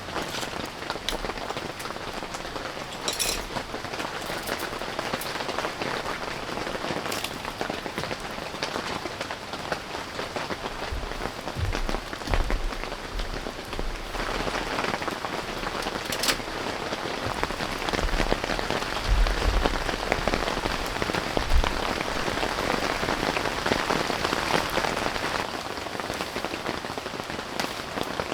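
Steady rain falling, with a few sharper drip strikes standing out and some low thumps about halfway through.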